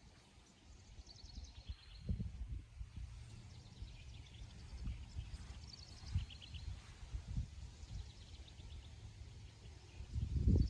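A songbird singing short phrases of quick, high repeated notes, a few seconds apart, over a low uneven rumbling that swells near the end.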